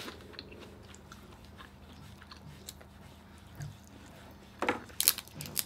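Close-up chewing and mouth sounds of people eating crab meat, with a cluster of sharp clicks and smacks near the end.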